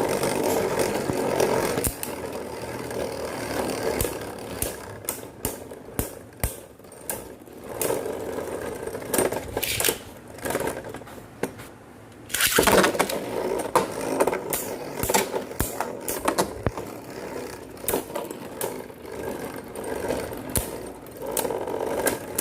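Beyblade Burst spinning tops, Brave Valkyrie and Curse Satan, whirring and scraping around a plastic stadium, with many sharp clacks as they collide and a louder clash about twelve seconds in.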